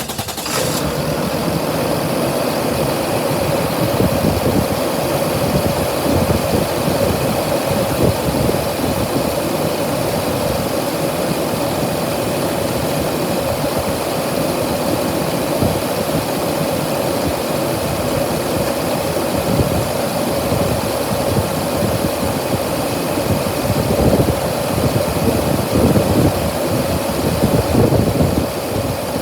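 Used truck engine assembly running steadily at idle.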